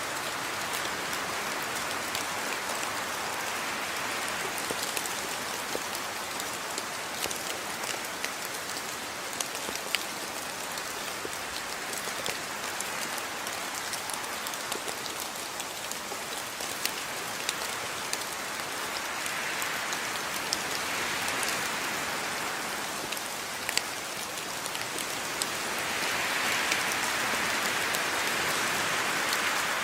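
Steady rain falling, with scattered individual drops ticking sharply on a surface. The downpour swells a little about two-thirds of the way through and again near the end.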